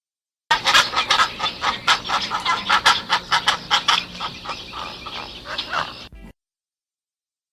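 A rapid series of short animal calls, several a second, starting half a second in and cutting off just after six seconds.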